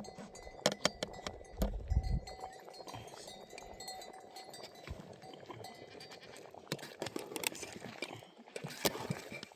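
A flock of goats and sheep with bells clinking, among many sharp clicks and knocks.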